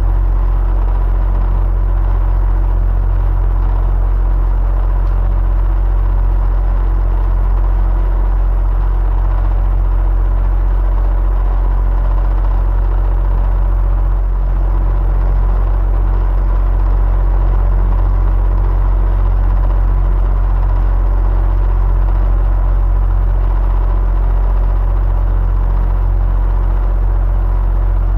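Electric fan running steadily: a deep, even hum with a few faint steady tones above it and no change throughout.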